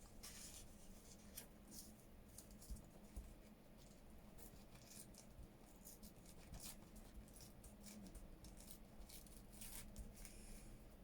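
Faint, sparse rustles and light taps of paper being handled, near silence otherwise.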